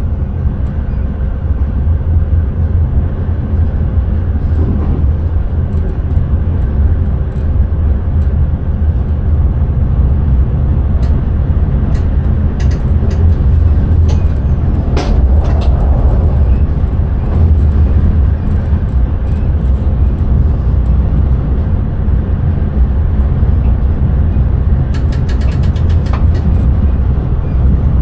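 Intercity train running along the line, heard from the driver's cab: a steady low rumble of wheels on rail, with a few sharp clicks about halfway through and a quick rattle of clicks near the end.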